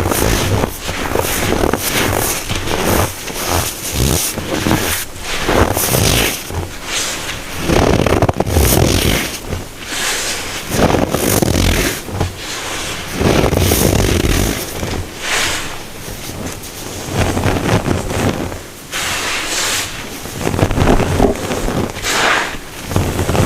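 Packed baking soda being crushed, an irregular run of crisp crunches about every second or two, with crumbling between them.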